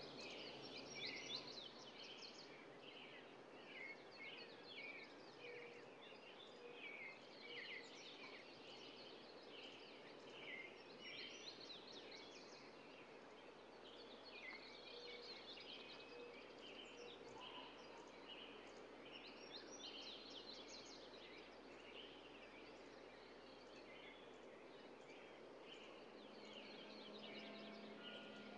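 Faint birdsong: many small birds chirping and singing in quick overlapping calls over a steady background hiss. A low steady hum comes in near the end.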